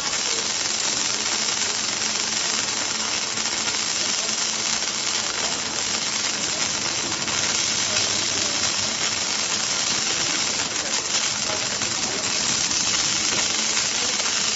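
Circumferential seam welding machine at work, giving a continuous, steady hiss with a faint hum underneath.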